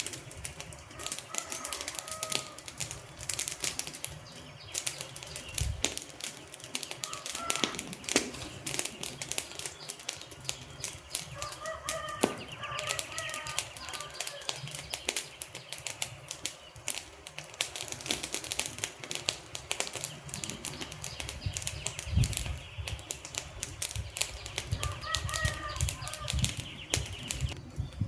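Wood fire burning with dense, rapid crackling and popping of the logs, with a few short chirping tones now and then and some lower thuds about three-quarters of the way through.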